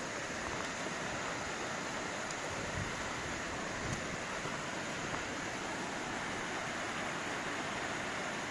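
Steady rushing of a mountain stream, an even hiss that does not change, with a few faint clicks over it.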